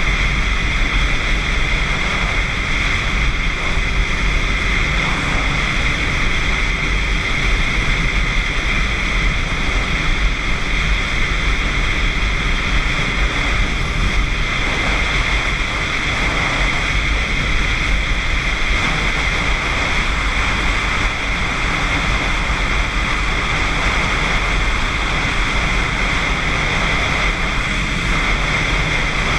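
Motorcycle cruising at steady speed: a constant rush of wind and road noise, with the engine running underneath.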